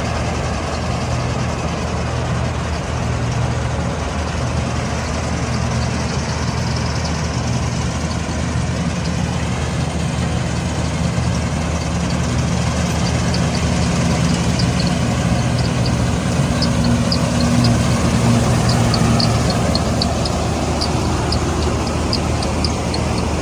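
A combine harvester's diesel engine running steadily under load. From about halfway through, light, quick clicking sounds over it.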